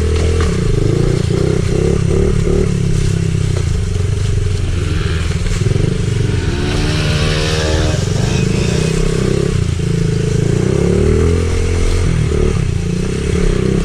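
Honda CRF50 pit bike's small single-cylinder four-stroke engine being ridden, its note rising and falling as the throttle is worked.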